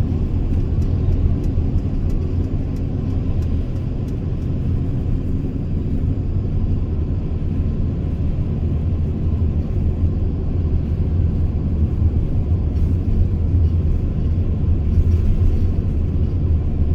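Mercedes Sprinter V6 van driving at a steady pace, its engine and road noise making a continuous low rumble.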